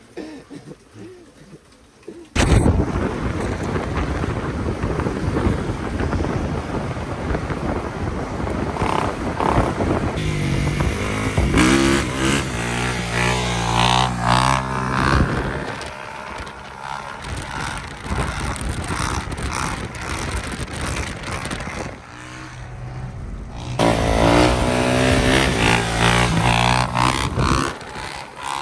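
Motorcycle being ridden: engine revving up and down over a dense rush of road and wind noise that starts suddenly about two seconds in.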